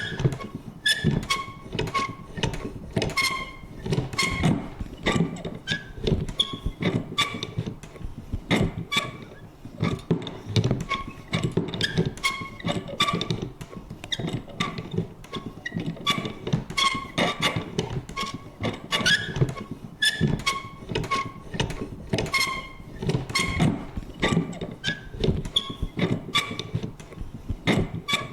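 Vintage paper punch worked over and over: an irregular run of clunks and clicks, several a second, mixed with short, high creaks from the mechanism.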